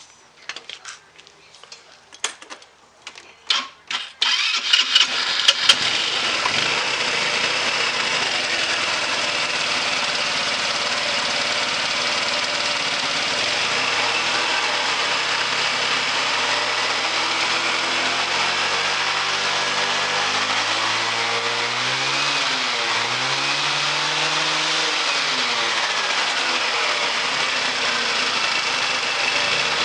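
GY6 150cc scooter engine, with a performance CDI box fitted, being started: a few clicks, then it catches about four seconds in and runs steadily, its pitch rising and falling now and then as the throttle changes.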